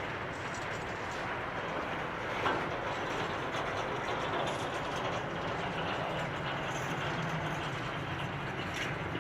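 Freight train wagons rolling past on the rails in a steady rumble, with one sharp clank about two and a half seconds in.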